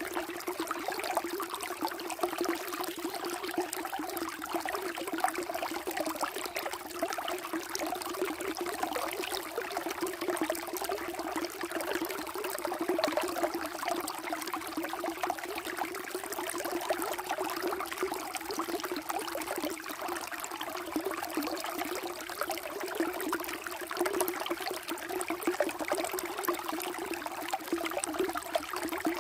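Water flowing and trickling steadily, a continuous splashing and burbling.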